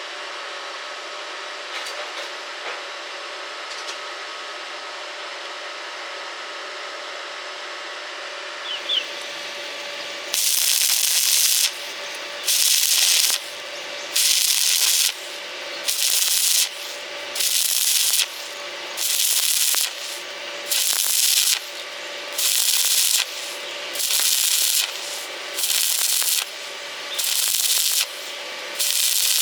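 Stick-welding arc crackling in short bursts of about a second each, struck and broken again roughly every second and a half, about a dozen times, like stitch welding on thin metal. Before that there is a steady lower hiss with a faint hum.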